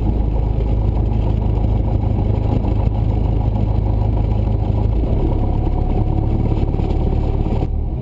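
Cessna 172's piston engine running steadily at low power, a constant low drone whose low tone shifts slightly about five seconds in.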